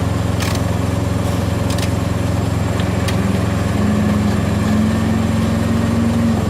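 Steady low hum of an idling diesel truck engine, with a couple of sharp clicks as a bolt is worked into the headlight mounting. From about three seconds in, a higher whine rises in steps and stops abruptly near the end.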